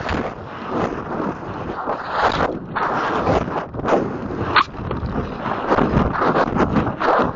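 Wind buffeting the microphone in uneven gusts, with a few short sharp knocks.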